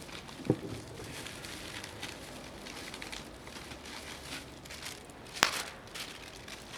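Wood fire crackling with many small ticks, burning mostly green, freshly gathered wood. A low thump comes about half a second in, and a sharp loud pop near the end.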